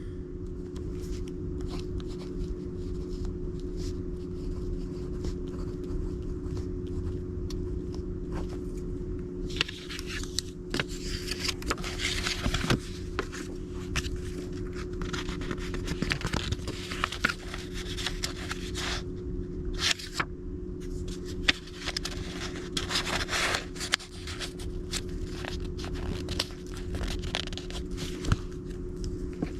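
Scraping and rustling as index cards are handled, with many small clicks, over a steady low hum. The scraping is sparse at first and becomes busier about ten seconds in.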